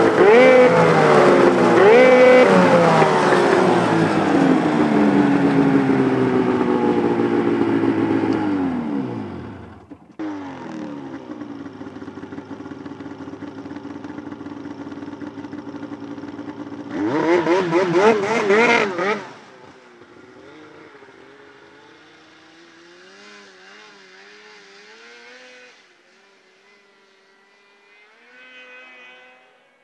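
Polaris RMK 700 snowmobile's two-stroke twin, running through an SLP exhaust with no muffler, revved in quick blips and then winding down. It picks up again, is revved once more about two thirds of the way in, then settles to a much quieter, wavering low run that fades out near the end.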